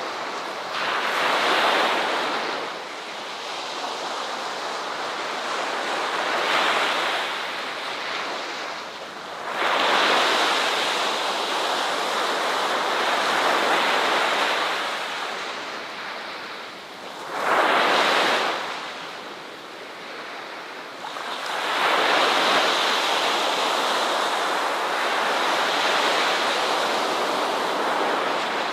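Ocean waves breaking and washing on a shore, the surf swelling and ebbing in repeated surges, with a short sharp surge about eighteen seconds in.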